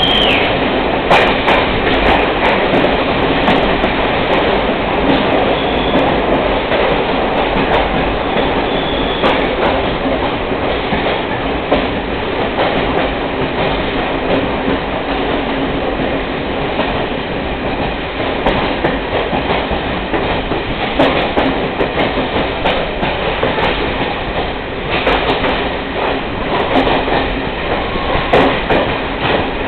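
Passenger train running along the track, heard from on board: a steady rumble and rattle of wheels on rails, with scattered rail clicks and a couple of brief faint high squeals.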